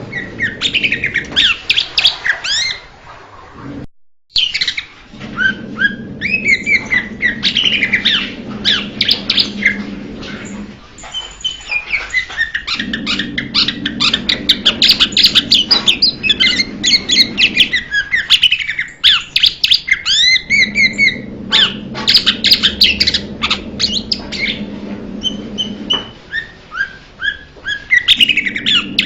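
Blue-winged leafbird singing: fast, varied chattering phrases of quick rising and falling whistled notes, in bouts of several seconds with short pauses between. A low steady hum runs underneath.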